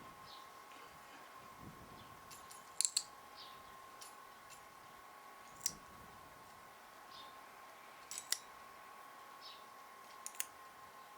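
Nail clippers snipping a cat's claws: a handful of sharp clicks, several in quick pairs, over a faint steady hum.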